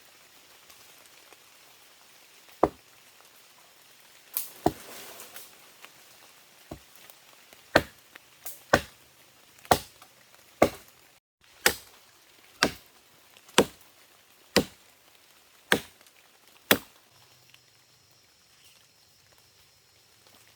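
Chopping strikes into wood: a few scattered blows, then a steady run of about ten strikes, one a second, which stops a few seconds before the end.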